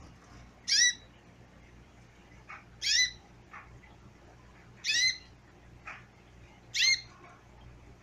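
A caged pet bird repeating a short, sharp call four times, about every two seconds, with fainter short chirps in between.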